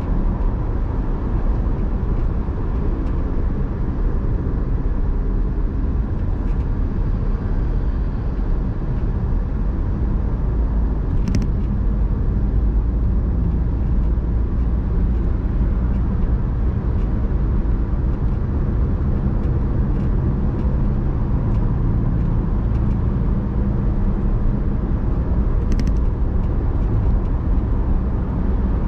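Car driving along: a steady low rumble of engine and road noise, with two brief sharp clicks well apart.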